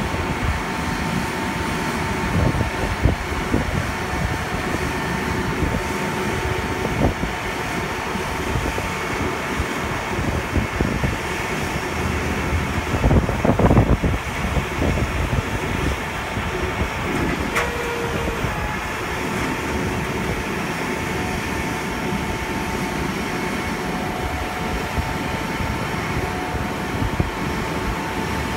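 Caterpillar TL1255C telehandler's diesel engine running steadily, with a brief louder surge about halfway through and a short click a few seconds later.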